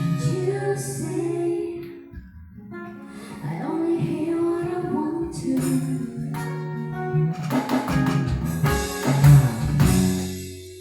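Acoustic trio playing live, led by acoustic guitar with held notes and strummed chords. It dips briefly about two seconds in and fades away near the end as the song closes.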